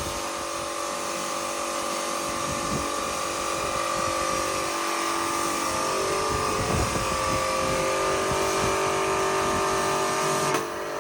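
Electric pressure washer (jet wash) running steadily, its motor hum over the hiss of the water spray, the motor's pitch shifting slightly about six seconds in.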